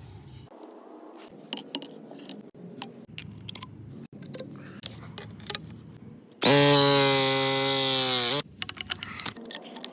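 Clicks and rattles of plumbing tools being handled, then a loud, high whine lasting about two seconds, about two-thirds of the way in, that drops in pitch as it stops.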